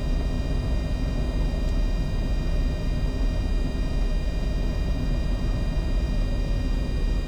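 Steady cockpit noise of a Bombardier Challenger 605 jet on final approach with gear and flaps down: a deep, even rumble of airflow and engines, with a few faint steady high tones above it.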